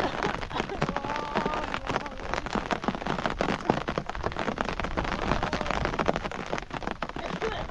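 Steady rain falling, with many drops ticking on the surfaces around.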